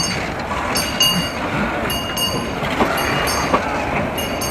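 A passenger train rolling slowly into the platform: its wheels click over the rail joints in pairs, each pair with a short metallic ring, about once a second over a steady rumble.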